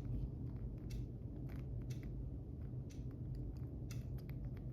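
Scattered light clicks and taps of small plastic parts as a tiny Orlandoo micro RC truck wheel is handled and lined up on its hub, over a steady low hum.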